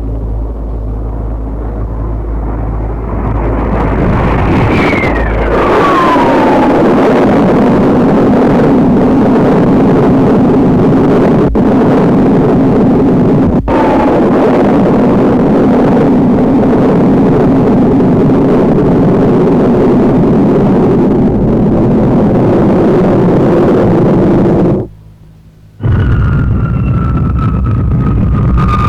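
Jet engines of Fouga Magister trainers flying past: loud, steady jet noise with a whine that falls in pitch as they pass about five seconds in. The sound drops out briefly near the end, then returns with a high jet whine that slowly falls.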